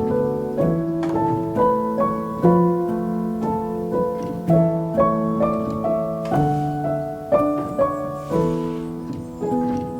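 Soft solo piano music playing a slow melody over sustained chords.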